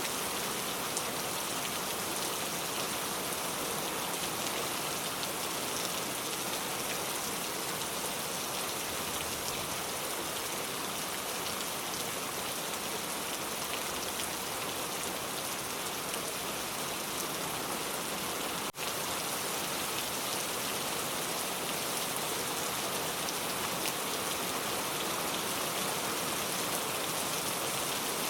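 Steady rain falling, an even hiss of many drops, with a brief dropout about two-thirds of the way through.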